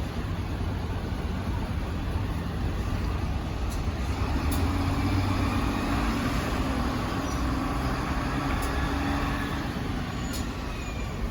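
City bus diesel engine running after its start, growing somewhat louder with a faint hum from about four to nine seconds in, with a few light clicks.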